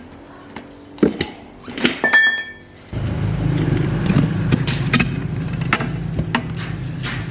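Light clinks and knocks of metal tools, with a short metallic ring about two seconds in. About three seconds in, an engine starts abruptly and then runs steadily at a low, even pitch.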